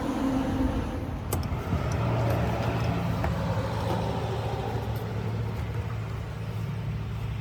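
A motor running with a steady low hum, with one sharp click a little over a second in.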